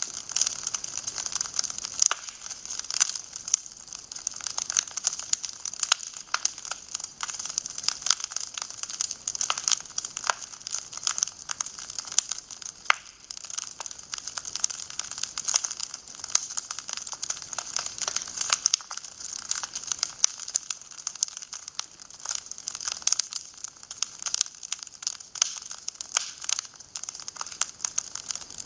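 Wood fire crackling in a fireplace: a dense, irregular run of sharp pops and snaps over a steady hiss.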